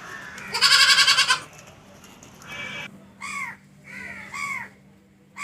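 Goat bleating: one long, loud, wavering bleat about half a second in, then a short call, then a few shorter calls that fall in pitch.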